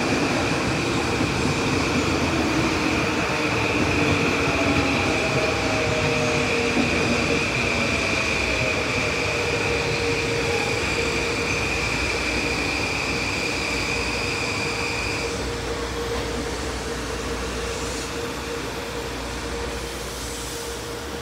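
Metro-North M8 electric multiple-unit train running past on the tracks, a continuous rumble with a steady high-pitched whine that cuts off about fifteen seconds in and a few falling tones near the start. The running sound fades slowly toward the end.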